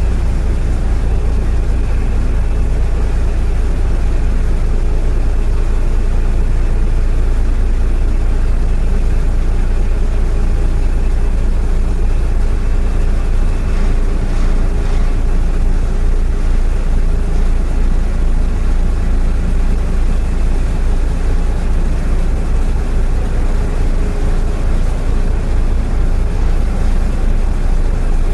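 A boat's diesel engine running steadily, a low hum that carries on evenly without change.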